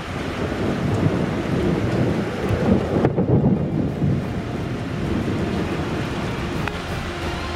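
Thunder rumbling during a thunderstorm over a steady hiss of rain, the rumble swelling to its loudest about three seconds in and then easing.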